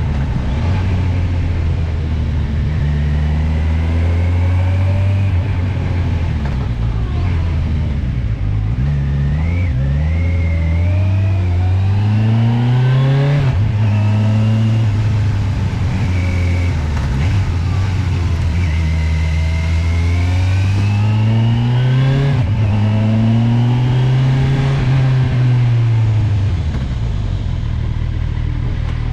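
Kawasaki motorcycle engine accelerating and easing off again and again up a twisting mountain climb. The revs rise steadily, then drop suddenly several times, around a third, a half and three quarters of the way through.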